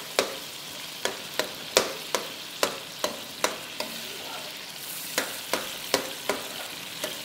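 Brain masala frying in oil in a metal wok, sizzling steadily, while a steel spoon stirs it and knocks and scrapes against the pan in sharp clicks about twice a second.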